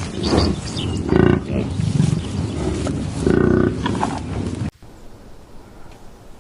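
A big cat roaring and growling in a run of loud, rough calls, the strongest about a second in and again past the three-second mark. The calls cut off suddenly near the end, leaving only low background noise.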